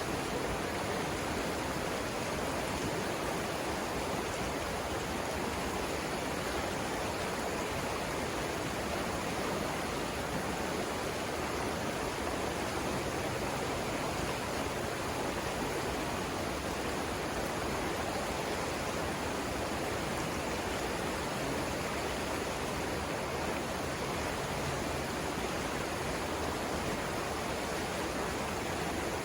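Savannah River flowing over rapids: a steady, even rush of water with no breaks.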